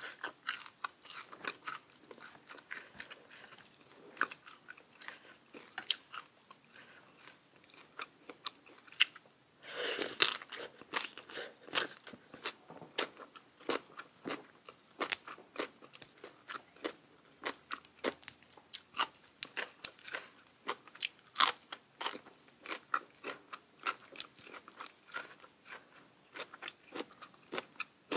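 Close-miked chewing and crunching of crisp fried tilapia belly, a steady run of sharp crunchy bites with a longer, louder crunch about ten seconds in.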